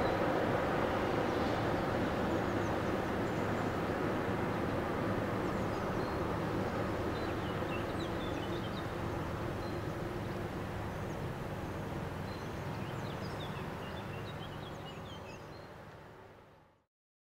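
Freight train of tank wagons rolling past, a steady rumble that slowly fades as the tail of the train moves away, with small birds chirping over it. The sound fades out completely near the end.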